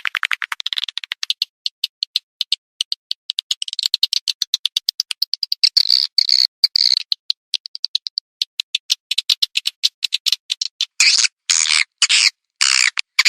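Swiftlets twittering in a dense stream of rapid dry clicks and short high chirps, with longer buzzy chirp calls coming in near the end. This is a swiftlet-farming call sound, played to draw swiftlets in to roost and nest.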